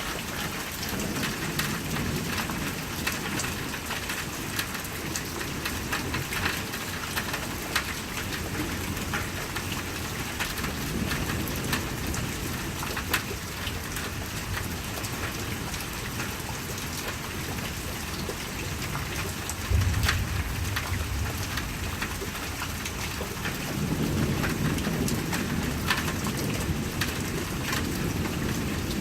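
Steady rain falling, with many individual raindrops ticking sharply, under a thunderstorm. Low thunder rumbles swell and fade several times, with a sudden low clap about twenty seconds in and a longer rumble building near the end.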